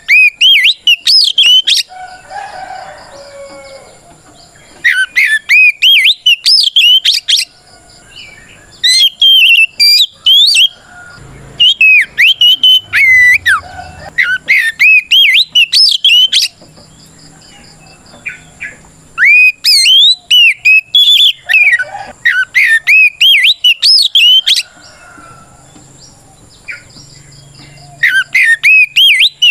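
Oriental magpie-robin singing its loud fighting song (gacor ngeplong), a territorial call to a rival: bouts of rapid, varied whistled phrases sweeping up and down, about six bouts with short pauses between them.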